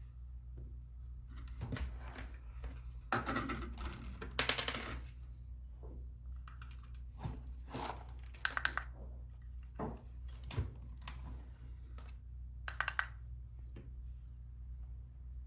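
Light clicks, taps and short scrapes of small lens parts and tools being handled, in irregular clusters, over a steady low hum.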